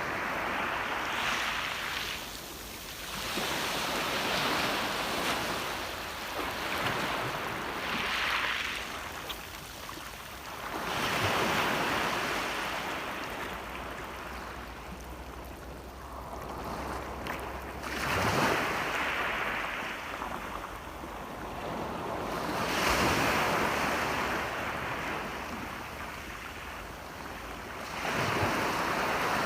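Sea waves breaking and washing on the shore, the surf swelling and falling away every few seconds.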